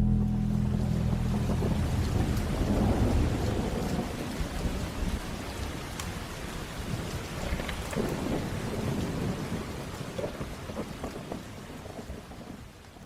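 Thunderstorm: thunder rumbling loud at first over steady heavy rain, the whole sound fading gradually toward the end.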